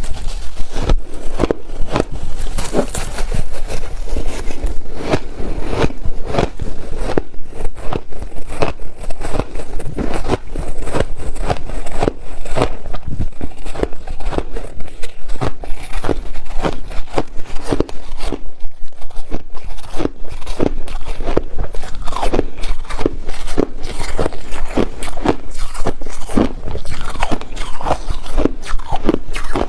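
A person biting and chewing ice in steady crisp crunches, two or three a second, without a break.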